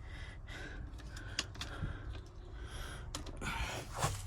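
Quiet handling noise: scattered light clicks and rustles with a few audible breaths, and a slightly louder knock near the end.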